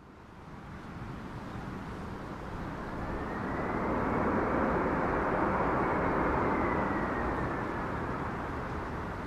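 Airplane passing overhead: a rushing noise that swells slowly, is loudest for a few seconds in the middle with a faint high whine arching over it, then slowly fades.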